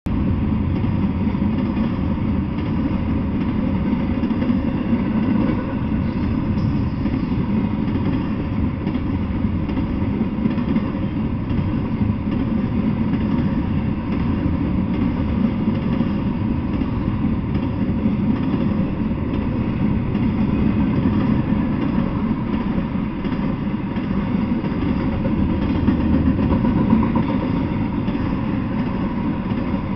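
Double-stack intermodal freight train rolling past, a steady low rumble of wheels on rails that never lets up.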